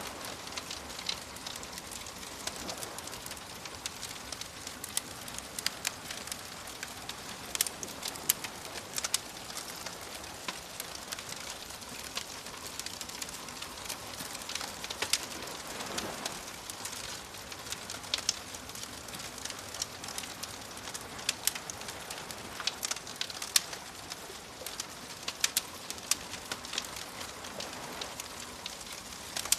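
Wood fire crackling, with frequent sharp pops and snaps over a soft wash of waves; a wave swells and recedes about sixteen seconds in.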